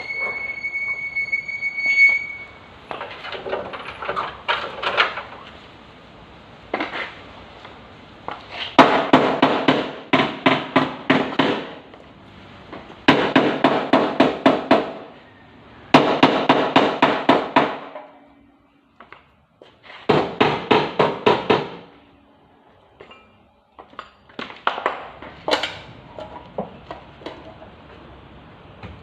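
Hammer blows on car body sheet metal, struck in quick runs of about four a second for a few seconds at a time, with pauses between: panel beating to straighten collision damage.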